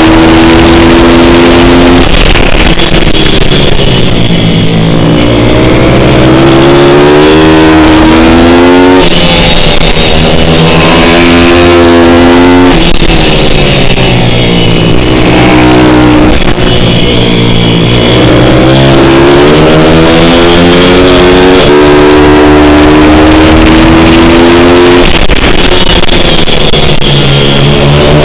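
Pit bike motard's single-cylinder four-stroke engine run hard and loud, its pitch climbing under acceleration, holding high, then falling away, over and over, as on a lap of a tight track.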